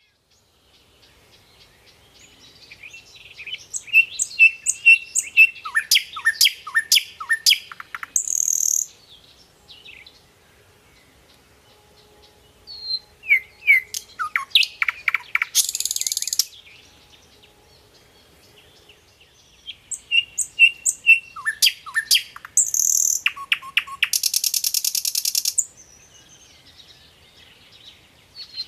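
A songbird singing in three bouts separated by short pauses. Each bout is a run of quick chirps and downward-sweeping notes that ends in a high buzzy trill.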